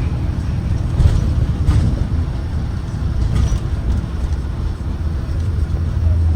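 2023 Blue Bird Vision propane school bus running, a steady low engine and road rumble.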